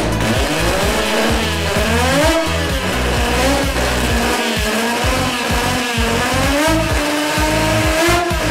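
Swapped rotary engine in a drag car revving at the start line. Its pitch rises and falls in repeated blips, then holds higher and climbs slowly near the end.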